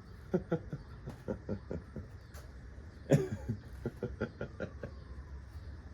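A person's voice in a string of short, breathy bursts, with a louder one about three seconds in.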